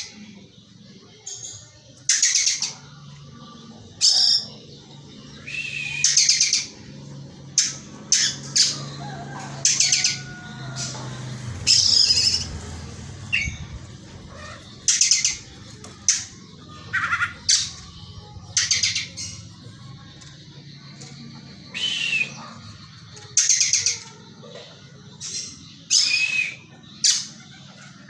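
Oriental magpie-robin (kacer) giving short, loud, harsh calls, repeated about every one to two seconds, as it mimics the call of the tengkek buto kingfisher.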